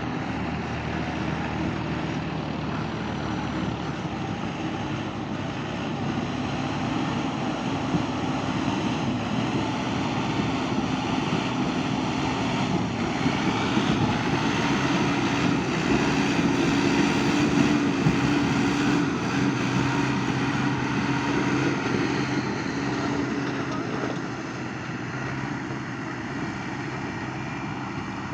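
Mahindra 275 tractor's diesel engine running steadily under load. It grows louder through the middle and eases off a little near the end.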